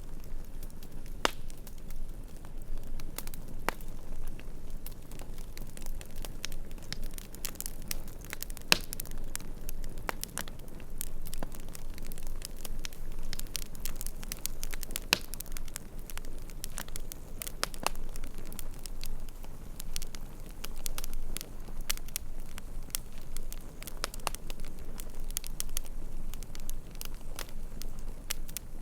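Campfire crackling, with frequent irregular sharp pops and snaps over a steady low rumble of the flames.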